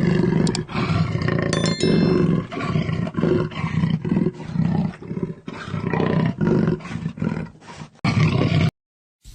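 Lion roaring: a series of deep grunting roars, one after another, that grow weaker and further apart, then cut off suddenly near the end.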